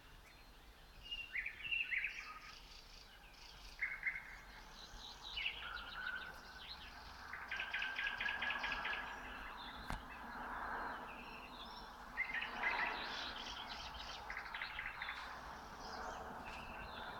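Nightingale singing: separate phrases of whistled notes and fast rattling runs of repeated notes, with short pauses between phrases.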